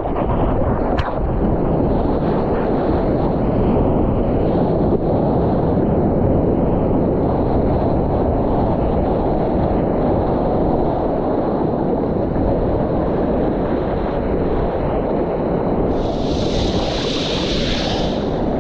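Wind buffeting an action camera's microphone and rushing lake water while surfing, a loud, steady rush throughout. A brighter hiss rises for about two seconds near the end.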